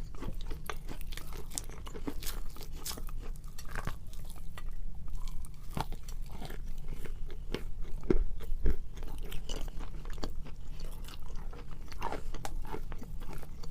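Edible chalk being bitten and chewed close to the microphone: a dense, uneven run of crisp crunches, loudest a little after the middle.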